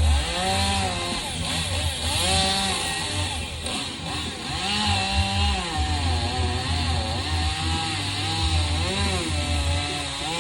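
Chainsaw running and revving, its engine pitch rising and falling over and over, as in cutting wood.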